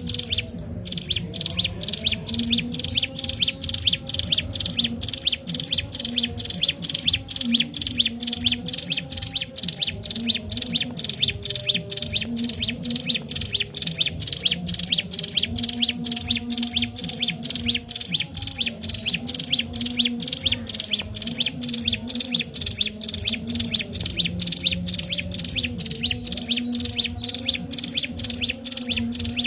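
Ciblek gunung (a mountain prinia) singing continuously: a rapid, unbroken chatter of short, high repeated notes.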